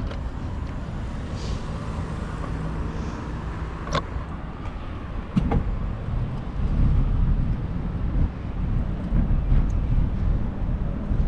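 Downtown street traffic going by, a steady low rumble of cars, with two sharp knocks about four and five and a half seconds in. The rumble turns louder and gusty in the second half.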